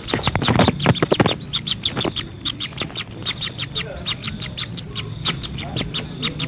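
Birds chirping rapidly and continuously, many short calls a second, over a steady high insect-like hiss. A louder burst of quick strokes comes in the first second and a half.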